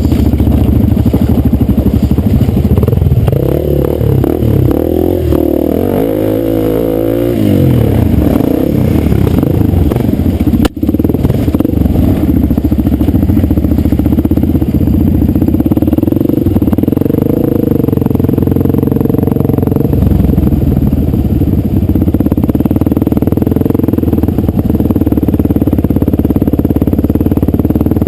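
Dirt bike engine running on the ride, its pitch rising and falling with the throttle for several seconds, then steadier. A single sharp click about ten seconds in.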